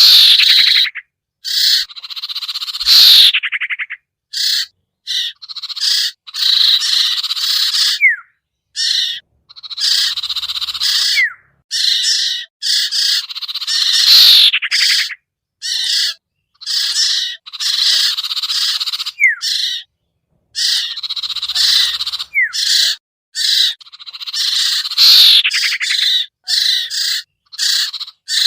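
Bird-lure recording of sirtu (sertu) calls: harsh, rasping chattering phrases repeated in short bursts with brief gaps, with a short falling whistle now and then.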